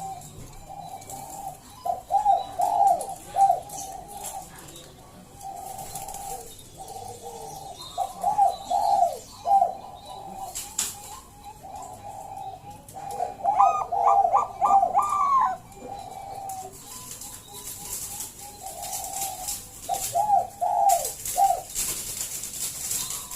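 Perkutut Bangkok (zebra dove) singing: repeated phrases of short cooing notes, with a run of higher, quicker notes about halfway through.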